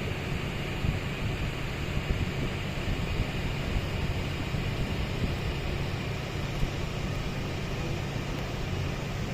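Passenger boat's engine running steadily underway, a constant low drone with a hum, mixed with the rush of water and air past the hull.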